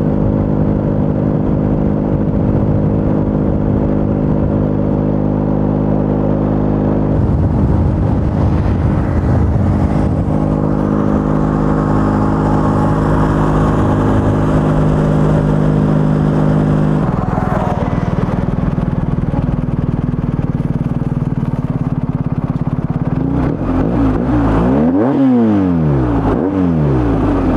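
BMW R1250 GS Adventure's boxer-twin engine through an Akrapovič titanium slip-on exhaust, holding a steady note for about seventeen seconds before the note changes. Near the end the sound sweeps up and down in pitch for a few seconds, as when a vehicle passes close by.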